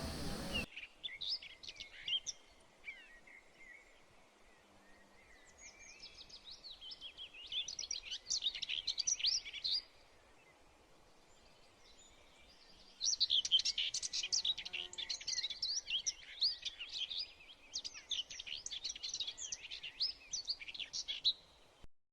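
Small birds twittering in quick, high chirping bursts, with a lull near the start and another around halfway. The sound starts and stops abruptly.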